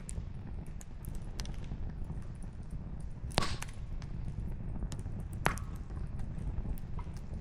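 Campfire of split firewood crackling: scattered small clicks over a steady low rumble, with two louder pops about three and a half and five and a half seconds in.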